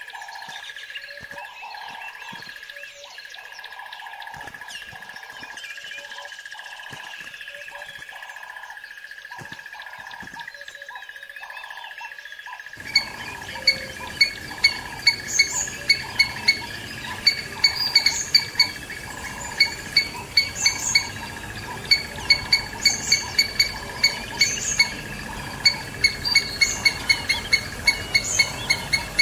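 Birds chirping over a steady high tone. About 13 seconds in the sound changes to a rushing background with a fast run of sharp, repeated chirps, several a second.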